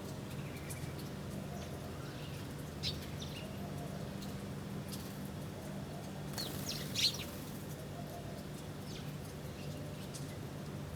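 Small birds chirping in short, scattered high calls, with a brief flurry of several chirps about two-thirds of the way through, the loudest moment. A steady low hum runs underneath.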